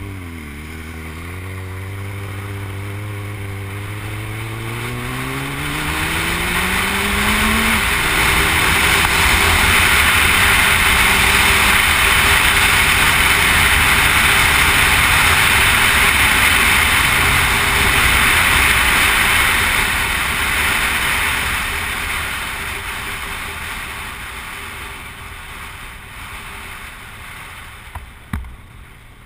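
Motorcycle engine accelerating, its pitch climbing steadily for about eight seconds before dropping with a gear change and running on at a steadier note. A loud rushing noise builds up to a peak mid-way and fades away toward the end, with a couple of short knocks at the start and near the end.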